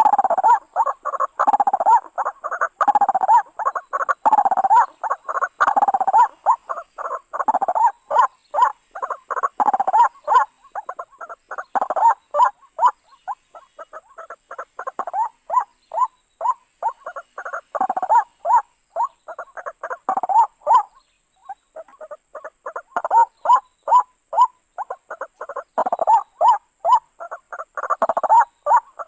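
White-breasted waterhen (ruak-ruak) calling: a long run of rapid, repeated croaking notes, with a short break about three-quarters of the way in. A faint steady high-pitched tone lies underneath.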